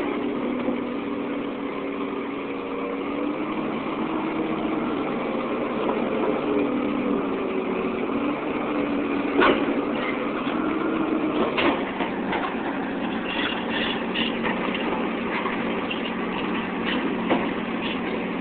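Caterpillar 235 excavator's diesel engine running steadily as the machine turns on its tracks, its pitch wavering a little. A few sharp clanks, about halfway through and near the end, and some high squeaks from the squeaky tracks.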